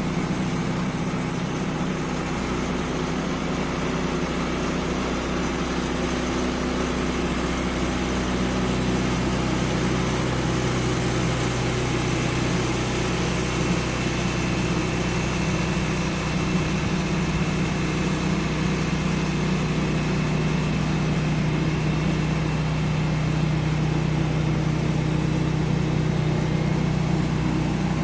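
Sawmill engine running steadily, its pitch shifting slightly about a third of the way in.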